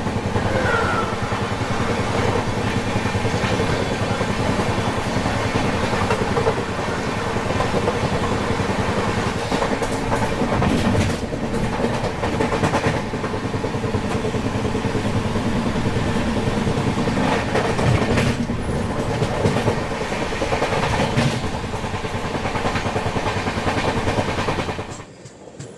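LHB passenger train running at speed, heard from the coach side: a steady rumble of wheels on rail, with scattered clacks over rail joints. The noise drops away abruptly near the end.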